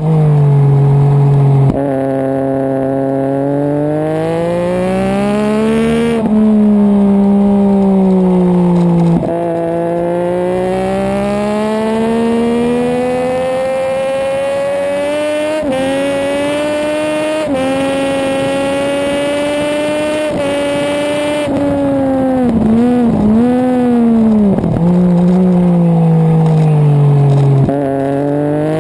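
Race motorcycle engine heard on board at speed, its pitch climbing steadily and then dropping sharply several times as it shifts up through the gears. Later the pitch dips and rises quickly several times, then falls as the bike slows, and climbs again near the end.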